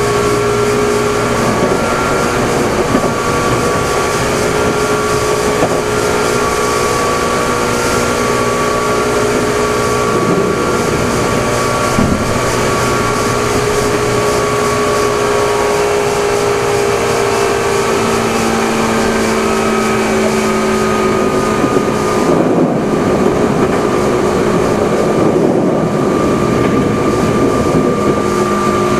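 Running sound of a Meitetsu 6000 series train, motor car Mo 6303, heard on board: a steady rumble of wheels on rail under a motor and gear whine made of several tones that slowly drift down in pitch. A lower hum joins in about two-thirds of the way through.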